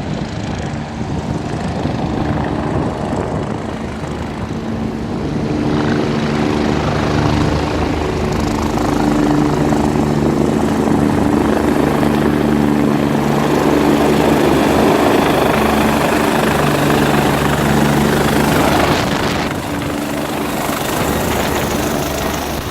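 Helicopter engine and rotor running close by, a steady hum with a rush of rotor noise over it. It grows louder about six seconds in and eases off a few seconds before the end.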